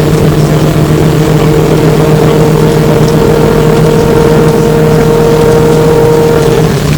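Flyer E902 electric trolleybus heard from inside while running, its electric drive giving a steady whine of two held tones over road noise; the higher tone cuts off near the end as the power comes off.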